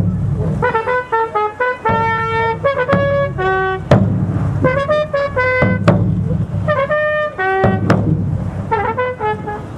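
Brass music: trumpets playing a lively melody over a steady beat, with a sharp strike about every two seconds.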